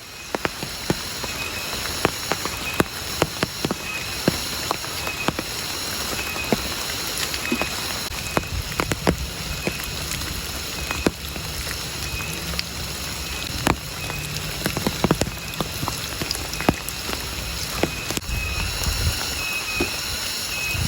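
Steady rain, with many large drops landing close by as separate sharp taps.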